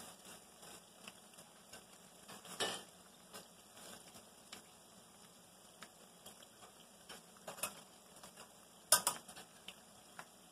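Battered cauliflower pieces frying in hot oil with a faint steady sizzle. A few sharp knocks of a metal spoon against the frying pan cut through it, the loudest about nine seconds in.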